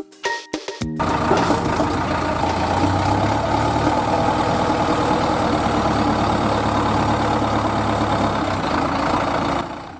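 Vehicle engine running steadily with a low rumble. It starts about a second in, after a few musical notes, and cuts off just before the end.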